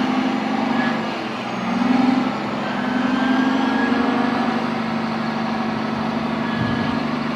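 Heavy diesel machinery engine running steadily, swelling briefly about two seconds in.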